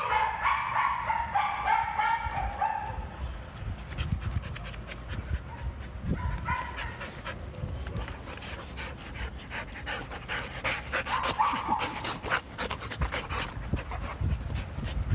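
Two dogs, one a Heeler mix, playing and panting, with short high-pitched whines in the first few seconds, again about six seconds in and around eleven seconds, over many short clicks and scuffles.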